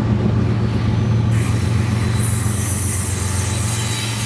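Diesel train running with a steady low engine drone. About a second in, a loud hiss joins it and carries on.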